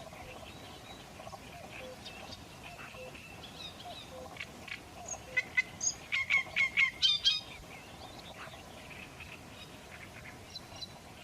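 Birds calling: scattered short calls, then a quick run of about eight loud, short calls from about five to seven and a half seconds in, before the calling falls back to a quieter level.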